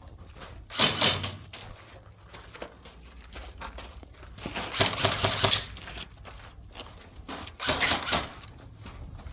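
Airsoft rifle firing three bursts of rapid clicking shots: a short burst about a second in, a longer one in the middle, and a third near the end.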